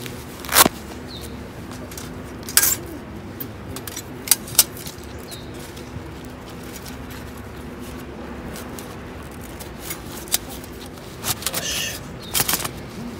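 Scattered sharp clicks and knocks of small hard objects being handled, over a steady low hum.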